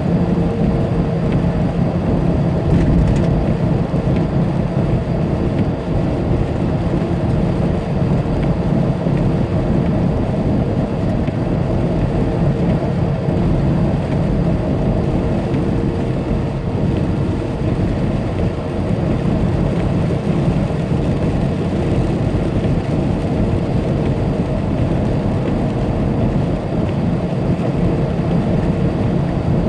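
Tractor-trailer's diesel engine running at a steady drone under continuous tyre and road noise, heard from inside the cab while cruising.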